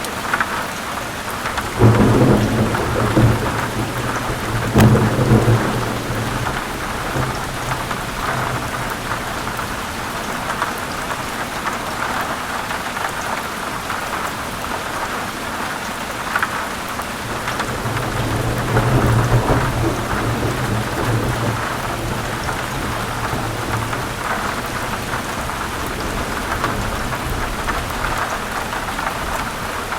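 Heavy rain falling steadily, with thunder rumbling in low swells about two seconds in, again at around five seconds, and longer around the middle.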